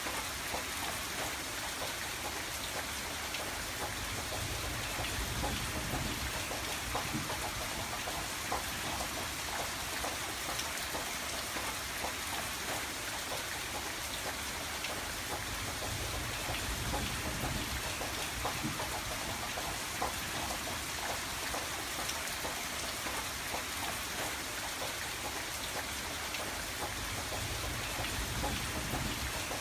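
Steady rain pattering on a window, with many small drop ticks over a continuous hiss and a low rumble that swells and eases a couple of times.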